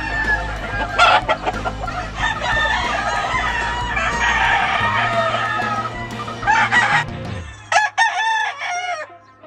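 Many gamefowl roosters crowing over one another, with clucking mixed in, over a low steady hum that stops about three-quarters of the way through.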